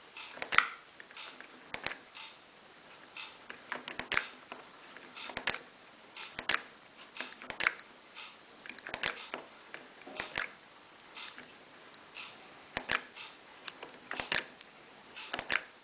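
Control panel of a Miele PW6055 Plus professional washing machine being operated: a series of sharp clicks, often in close pairs, about one every second or so, as the settings are stepped through.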